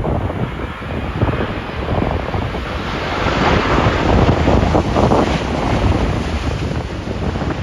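Strong gusty wind buffeting the microphone, a heavy rumbling rush that swells in the middle and eases toward the end.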